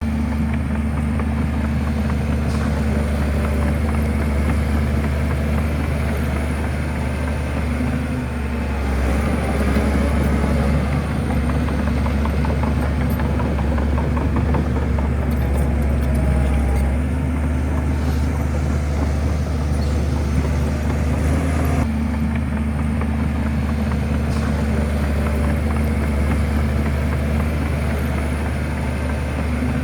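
Shantui bulldozer's diesel engine running steadily under working load, its note shifting about eight seconds in and again about two-thirds of the way through.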